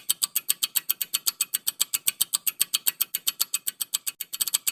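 Rapid, evenly spaced ticking of a countdown-timer sound effect, about seven sharp, high ticks a second, marking the time to answer a quiz question.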